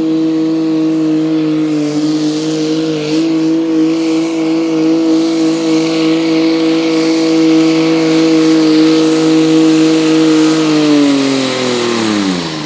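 Diesel garden tractor engine running flat out under load as it pulls the sled, holding a steady high-revving note. About eleven seconds in, the pitch falls away as the engine throttles down at the end of the pull.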